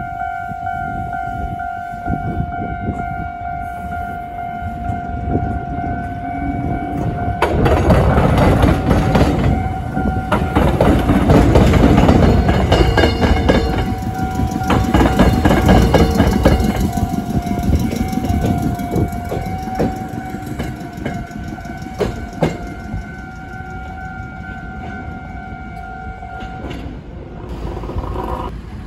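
Level-crossing warning signal ringing steadily while an orange Iyotetsu suburban train rolls through the diamond crossing. Its wheels clatter over the crossing rails, loudest from about 8 to 17 seconds, then fade. The crossing signal stops shortly before the end.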